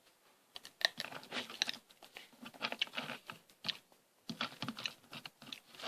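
Someone chewing crispy fried potato snack sticks: a dense run of irregular crunches and crackles, with a short pause about four seconds in.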